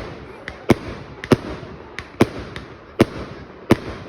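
Firework display: a quick, irregular run of sharp bangs, about eight in four seconds, over a steady hiss of noise.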